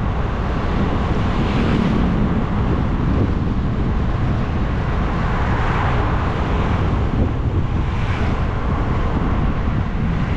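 Wind buffeting the microphone with steady rushing road and vehicle noise during a bike ride, swelling and easing every couple of seconds.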